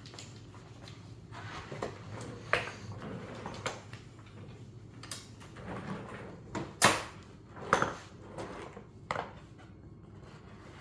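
Tools and gear being handled: an irregular series of knocks, clicks and clatters, the loudest about seven seconds in, over a faint steady low hum.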